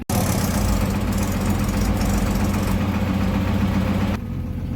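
Diesel engine idling with a low, steady drone. About four seconds in it abruptly drops to a quieter engine sound.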